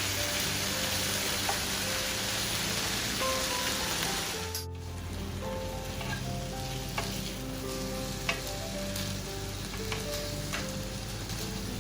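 Food sizzling in a frying pan, with occasional light clicks of a utensil stirring. The sizzle suddenly drops quieter about four and a half seconds in.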